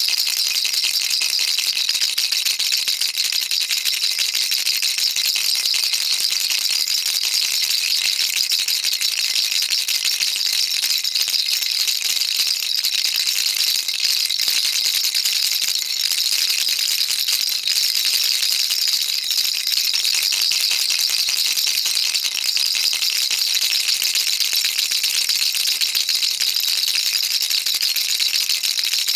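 Baby rattle shaken continuously, a dense, even stream of small beads rattling with no pauses.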